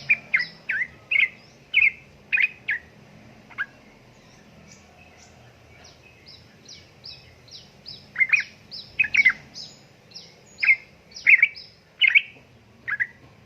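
Yellow-vented bulbul (trucukan) calling in quick, loud chattering notes. In the middle the loud calls pause while a softer run of short, high notes goes on, and the loud chatter comes back near the end.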